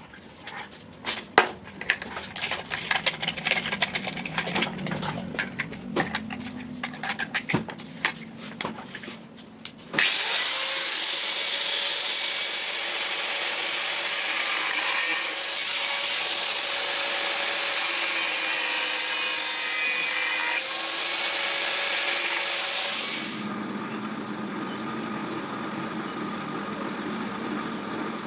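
A rapid, irregular series of clicks and knocks, then about ten seconds in a power tool starts suddenly and runs steadily for about thirteen seconds before cutting back to a lower, steadier hum.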